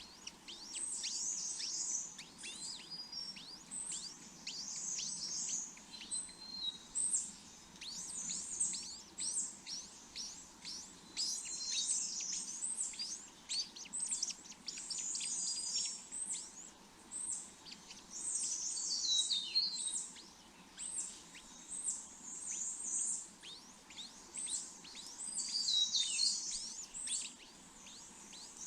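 Small birds chirping in rapid clusters of high, quick, downward-sweeping notes, with louder bursts about two-thirds of the way in and near the end.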